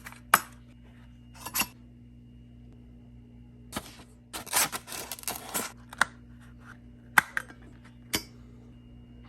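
Handling noises: several sharp, separate clicks and knocks, with a second or so of rustling or scraping in the middle, over a faint steady low hum.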